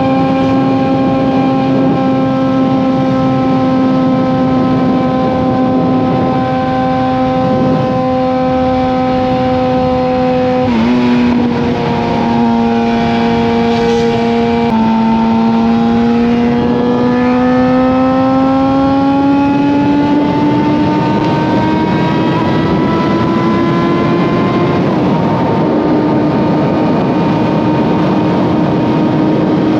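Suzuki GSX-R750 inline-four with an M4 slip-on exhaust running at highway speed over rushing wind noise. Its pitch holds steady, dips about eleven seconds in, then climbs steadily as the bike accelerates. It drops suddenly with a gear change and holds steady again.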